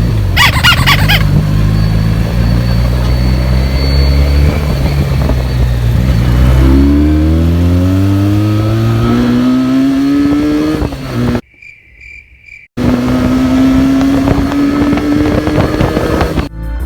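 Benelli TNT 300's parallel-twin engine through its stock exhaust. It runs at a steady note, then accelerates with its pitch climbing. The sound drops out briefly about two-thirds of the way through and then climbs again.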